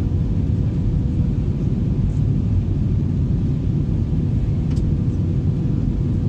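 Steady low rumble of an Airbus A321 airliner, with a faint steady hum above it.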